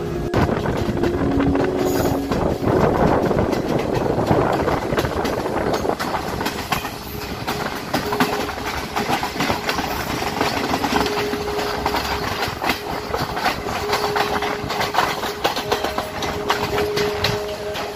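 Moving passenger train heard from an open carriage window: a steady rumble of wheels on the rails, with fast irregular clicks and clacks from the wheels and running gear. A faint steady tone comes and goes at times.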